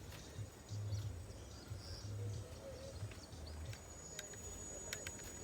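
Faint outdoor ambience: an uneven low rumble, with faint bird chirps and insects and a few light clicks.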